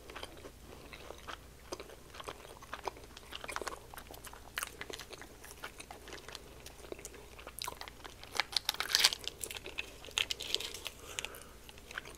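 Close-miked chewing of fried chicken, with many small wet mouth clicks and crackles. A small plastic dipping-sauce cup is handled as its peel-off lid is worked open. The crackling is densest about eight to nine and a half seconds in.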